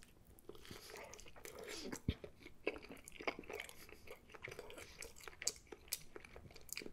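A person chewing a mouthful of a messy breakfast burger on a toasted everything bagel, with scattered small crunches and mouth clicks.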